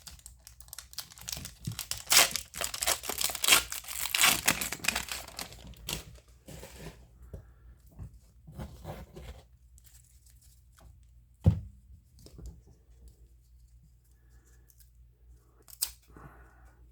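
A trading-card pack wrapper being torn open, crinkling hard for several seconds, then cards being handled with soft clicks and one sharp knock about two-thirds through.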